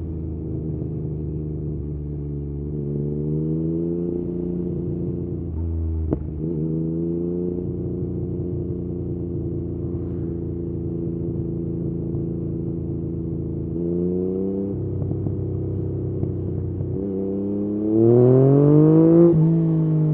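Yamaha MT-09's inline three-cylinder engine through an Akrapovič exhaust under way, its pitch climbing and dropping several times with throttle and gear changes. There is a sharp click about six seconds in, and a hard rise in revs near the end, the loudest part.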